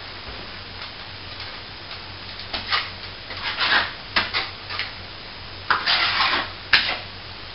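Plastering tools working wet plaster: a run of short scraping strokes starting about two and a half seconds in, with a sharp click near the end.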